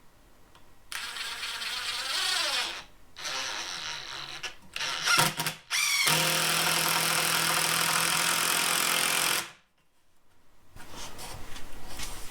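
Power drill driving a 3-inch construction screw into a wooden stud: a few short runs of the motor, then it spins up and runs steady under load for about three seconds before stopping abruptly.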